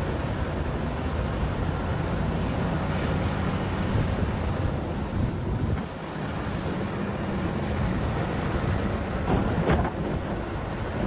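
Large mining excavator's diesel engine running under load, its pitch rising and falling as it works, with a brief drop about six seconds in. A short sharp noise about nine and a half seconds in is the loudest moment.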